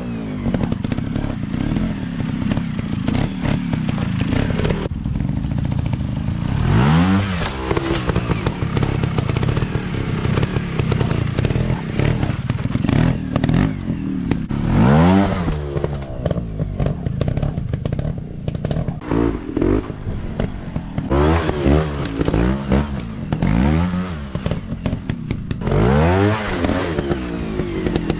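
Small dirt bike engines running hard, revving up and dropping back again and again, with the pitch rising and falling every few seconds. Rattles and knocks are mixed in throughout.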